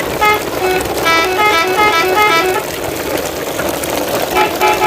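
A melodic horn plays a tune of short, stepping notes over a steady noisy background, the notes thinning out briefly about three seconds in.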